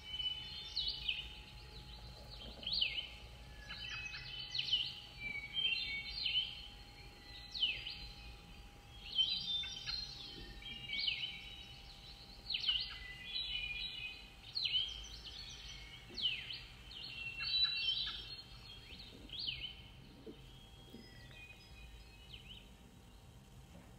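Birds singing: short phrases of quick down-sweeping high notes, one phrase every second or two, dying away shortly before the end.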